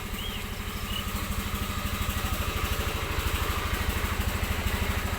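A small engine running steadily with a fast, even pulse, slowly getting louder.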